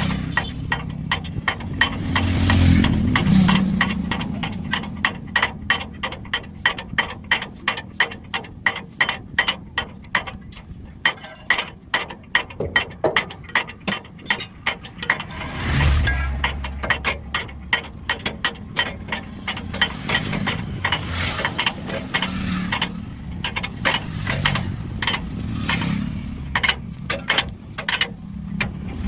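Rapid run of sharp metallic clicks, about three a second, from hand-tool work on a truck leaf spring, with two low rumbling swells, one a few seconds in and one about halfway through.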